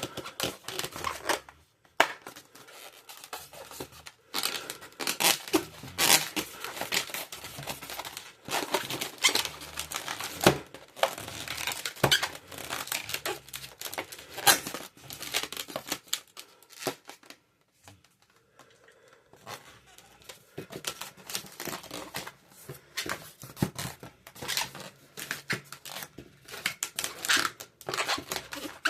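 Latex twisting balloons being handled and rubbed: a dense run of crinkly rubbing with sharp clicks, with a short lull about two thirds through.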